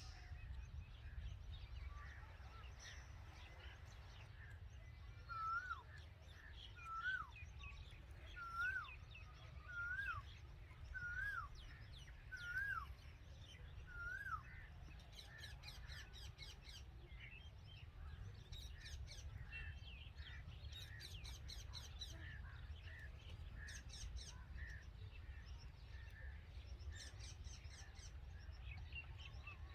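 Red-vented bulbul calling: a run of seven short, hooked call notes about a second and a half apart, followed by quicker, higher-pitched chirps in the second half, all faint over a low steady background rumble.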